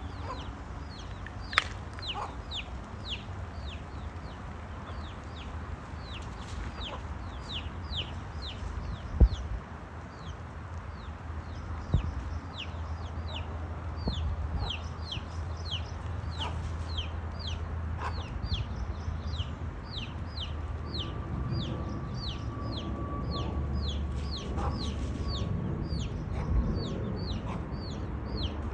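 Chickens calling: a long run of short, high, falling peeps, about two to three a second, over a steady background hiss. A few sharp knocks, the loudest about nine seconds in.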